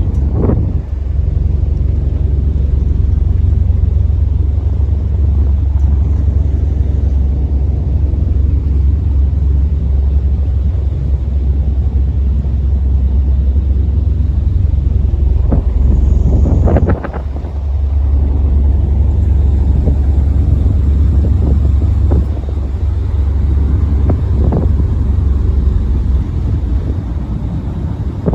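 Boat's engine running with a loud, steady deep rumble while the vessel swings around, with a few short knocks or voices over it and a brief dip about two thirds of the way in.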